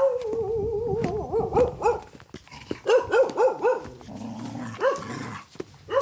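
A dog gives a drawn-out, wavering cry lasting about a second, then barks in quick runs of short, sharp barks, with a few more near the end.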